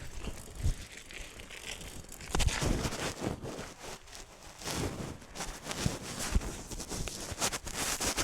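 BMX bike rolling over forest ground: tyres crunching and rustling through leaves and twigs, with scattered knocks and rattles, louder from about two seconds in.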